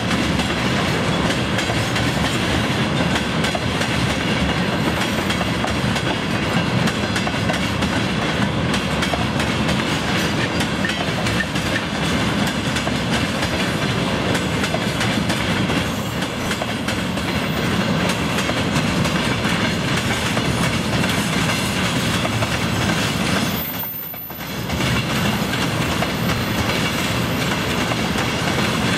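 Long freight train of railway tank cars rolling steadily past, its wheels running over the rails with a continuous rumble. The sound drops away briefly about three-quarters of the way through, then returns.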